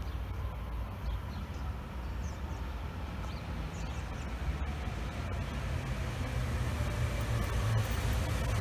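Train approaching: a low rumble that grows gradually louder, with faint tones sliding slowly down in pitch.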